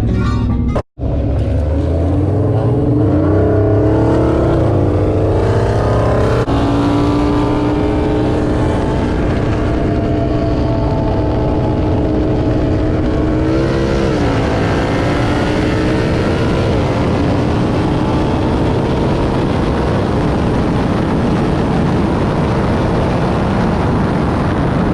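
Single-turbo BMW 335is engine pulling under load, its pitch climbing, dropping on a gear change, then running at a steady, slowly rising pitch with one dip and recovery partway through. There is a brief dropout about a second in.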